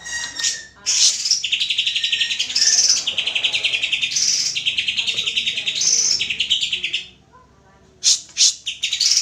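Green leafbird (cucak hijau) singing a long run of rapid, chattering trilled phrases with sharp high notes mixed in. It breaks off about seven seconds in and starts again a second later.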